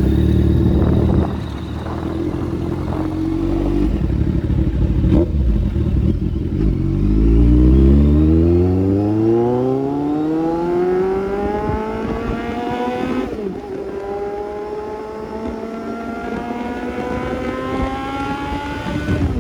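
Kawasaki Z800 inline-four with an aftermarket Austin Racing exhaust, running loud. It pulls away, its pitch climbing steadily through a gear. About 13 seconds in it drops sharply at a shift, then climbs again more slowly.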